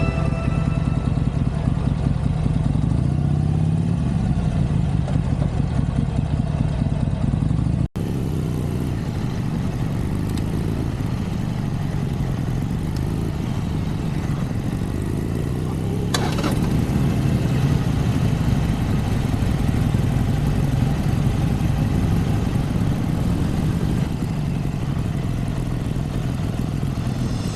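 Harley-Davidson Iron 883's air-cooled V-twin engine running under way, with wind noise over it. The engine note rises in pitch a few seconds in as it accelerates. The sound cuts out for an instant about eight seconds in, then carries on steadily.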